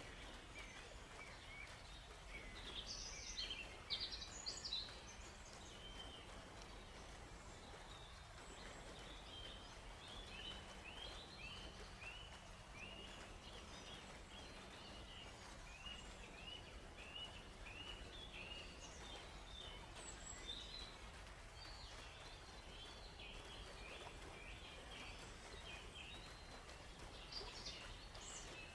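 Several songbirds chirping and singing in a forest, the loudest calls a few seconds in, then runs of short, quickly repeated chirps through the middle and near the end, over a faint steady background hiss.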